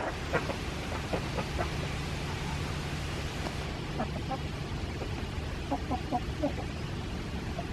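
Backyard chickens clucking in short clusters, near the start and again from about four to six and a half seconds in, over a low steady hum.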